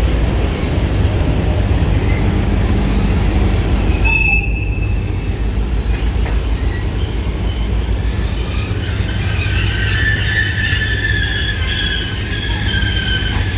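Passenger train rolling past with a steady low rumble of wheels on rails; about two-thirds of the way through, the wheels start to squeal in several high, steady tones.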